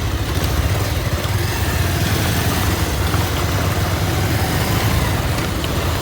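Motorcycle engine running steadily while riding, with a steady rush of noise over it.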